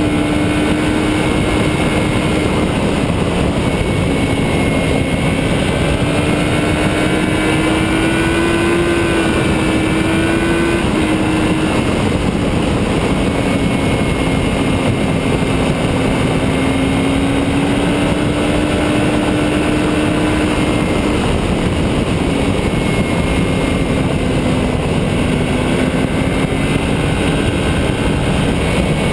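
Motorcycle engine running at a steady cruise, its pitch drifting slowly up and down, under heavy wind rush on the microphone.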